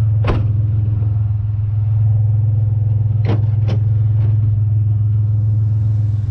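Pickup truck's engine idling steadily with a deep hum, with a sharp knock about a third of a second in and two more close together a little past three seconds in.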